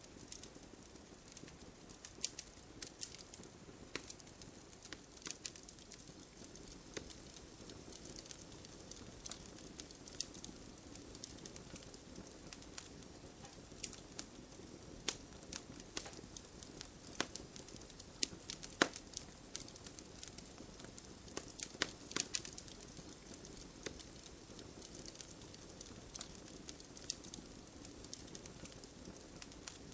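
Wood fire crackling, with irregular sharp pops and snaps throughout, over the steady patter of gentle rain.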